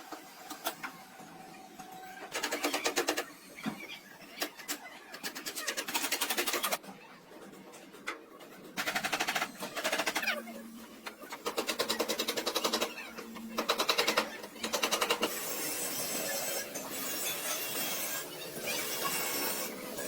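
A rapid-action power tool working metal, running in bursts of a second or more with short pauses between, each burst a fast even hammering.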